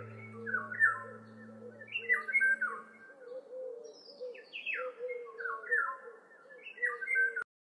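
Birds chirping in short, repeated falling calls, with a low steady music drone fading out in the first few seconds. All sound cuts off abruptly just before the end.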